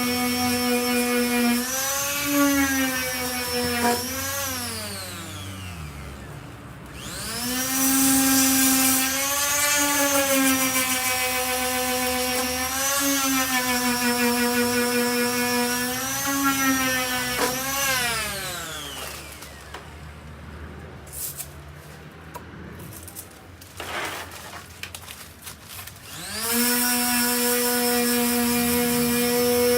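Electric sander fitted with a 240-grit disc, sanding body filler. Its motor whine dips in pitch as it is pressed on and rises when it is eased off. It winds down twice, with a few light knocks while it is stopped, and starts up again near the end.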